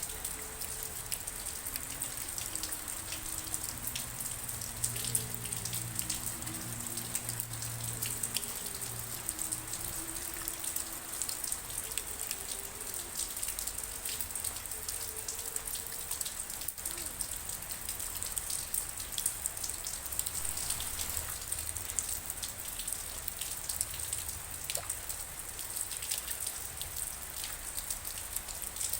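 Steady rainfall, with a constant hiss and many individual drops pattering and clicking on surfaces.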